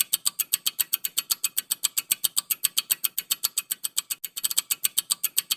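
Rapid, even ticking of a countdown-timer clock sound effect, about eight sharp ticks a second.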